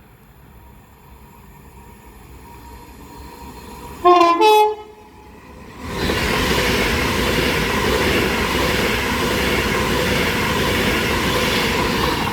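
Class 390 Pendolino approaching at speed and sounding its two-tone horn about four seconds in, a short lower note then a higher one. Then the loud, steady rush of the electric train passing at speed.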